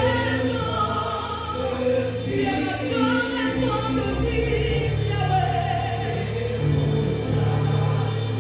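Church worship music: voices singing a gospel song together over held low accompaniment notes.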